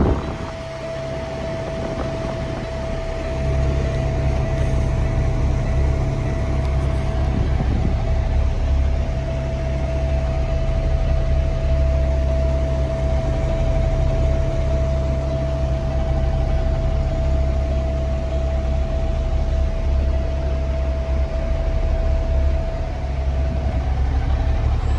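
Kenworth T800 semi truck's natural-gas (CNG) engine idling steadily, a low rumble with a steady whine held above it.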